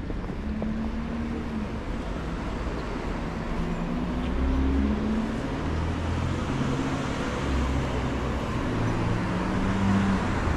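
City street traffic: passing vehicles' engines and tyres making a steady low rumble, which swells a little about midway and again near the end.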